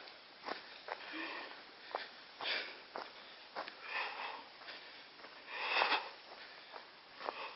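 A person breathing hard, a loud breath every second and a half or so, with sharp clicks and snaps of steps on the trail in between.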